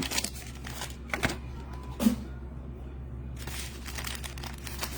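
Trading-card pack wrappers crinkling and cards being handled: scattered crackles and rustles, quieter in the middle and busier near the end, over a steady low hum.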